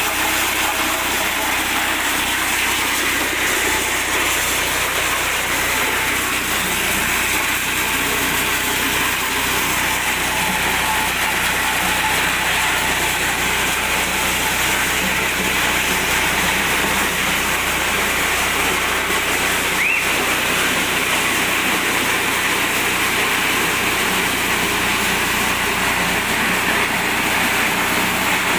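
Mini corn sheller driven by an 8 hp petrol engine, running steadily with a constant, even hissing noise, with a brief high chirp about two-thirds of the way through.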